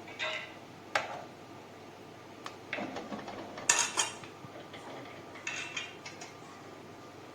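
Metal utensil clinking and scraping against a cooking pot, a handful of separate sharp clinks with brief ringing, the loudest near the middle.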